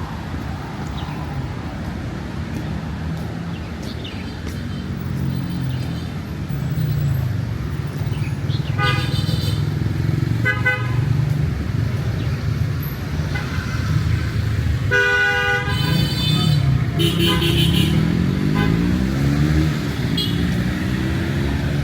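Busy road traffic running past, with several short vehicle horn toots in the second half. Near the end a vehicle engine rises in pitch as it speeds up.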